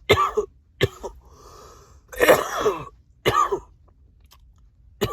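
A man coughing in a fit after inhaling a cannabis dab: four coughs with raspy, wheezing breaths between them. The longest and loudest cough comes about two seconds in, and the fit eases off near the end.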